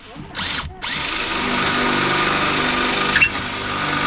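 Electric drill drilling out a spot weld in the car body's sheet steel: a short burst first, then a steady run from about a second in, dipping briefly near the three-second mark.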